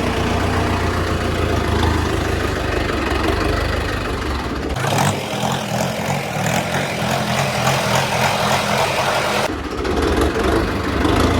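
Tractor diesel engine running steadily with a deep rumble. About five seconds in, the sound changes abruptly for a few seconds, losing its low rumble and turning brighter and noisier, then the engine rumble returns.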